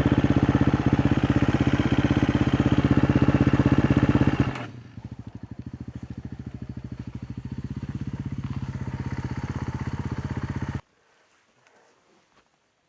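KTM 350 XC-F's single-cylinder four-stroke engine running steadily at raised revs, then falling to a quieter idle about four and a half seconds in, with its firing pulses audible. The sound cuts off abruptly near the end, leaving near silence.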